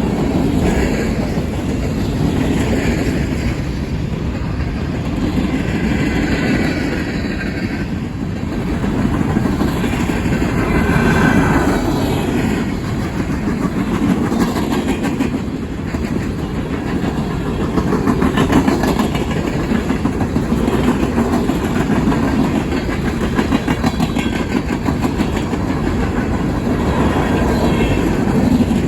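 Freight cars of a coal train rolling past, with a steady rumble and wheels clicking over the rail joints.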